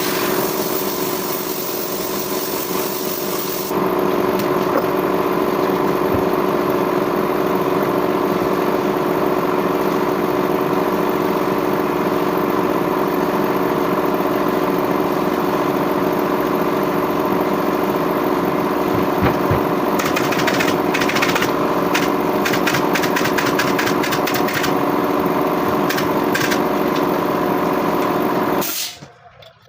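A power tool's electric motor runs steadily, with a rapid series of clicks over it for several seconds before it cuts off suddenly near the end.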